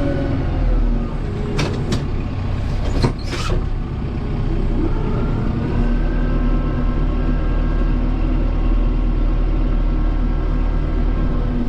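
Kubota M7060 tractor's four-cylinder diesel engine running under load while pushing snow, with a few sharp knocks about two and three seconds in. The engine note climbs a little and holds steady from about five seconds in.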